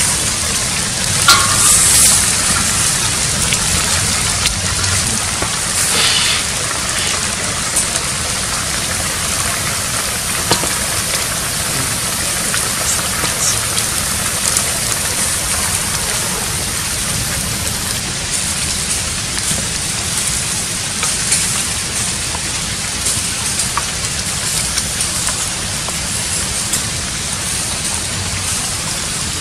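Snake and bamboo shoots sizzling and simmering in a steel wok over a wood fire, a steady hiss, with a metal spoon scraping the wok a few times near the start.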